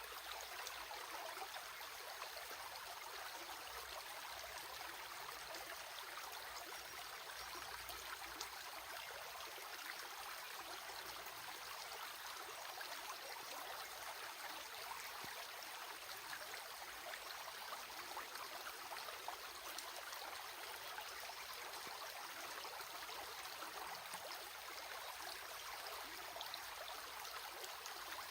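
Stream water running steadily: an even rushing hiss dotted with many small splashes.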